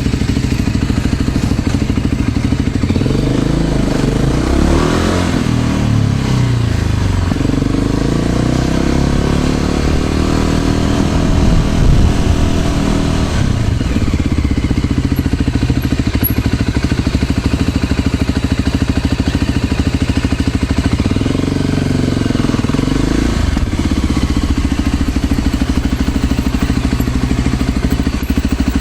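Motor scooter engine running under way, its pitch rising and falling with changes in speed about a quarter of the way in and again near three quarters of the way through.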